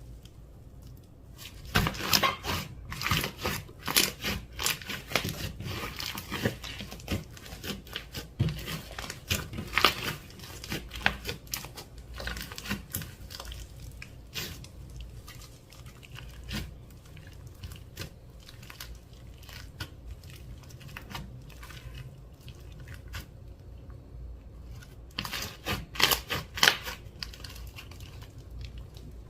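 Clear slime being squished and pressed by hand, with sticky crackling and popping. The crackles are densest through the first dozen seconds, thin out, then come in another burst near the end.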